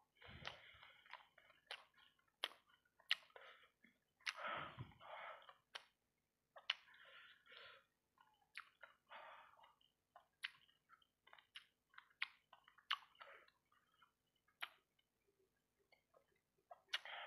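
Close-miked chewing of sauce-coated fried rice-ball satay: irregular mouth smacks and sharp clicks, with a low thump about four and a half seconds in.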